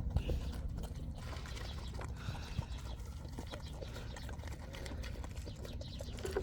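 Mini pig eating, its chewing and wet mouth smacking giving many small irregular clicks.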